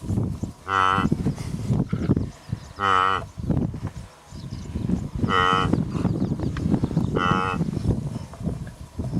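Blue wildebeest (gnu) calling: four short nasal grunting calls about two seconds apart, over a constant low rumble.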